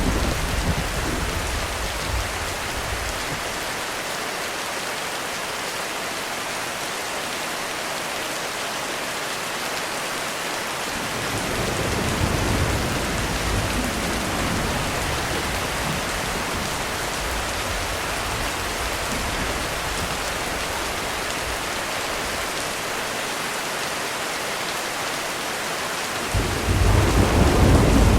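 Heavy rain falling steadily on a roof, with thunder rumbling: a roll dying away at the start, another about eleven seconds in, and a louder peal breaking near the end.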